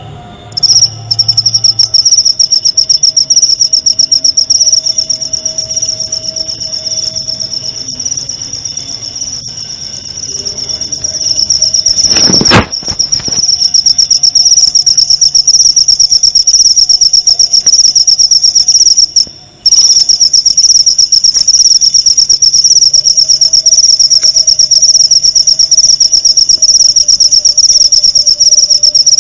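Cricket chirping in a fast, even, high-pitched trill that starts about half a second in and runs almost unbroken, with a brief pause a little past the middle. A single sharp click sounds a little before that pause.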